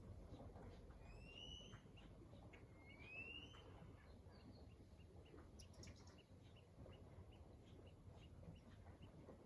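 Faint birdsong: two rising whistled calls, then a run of short, evenly spaced chirps, over a low background rumble.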